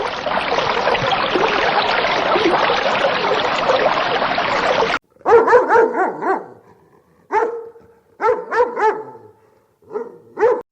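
A dog barking in short clusters, about eight to ten barks over the last five seconds. Before that, a dense hiss-like noise cuts off suddenly about five seconds in.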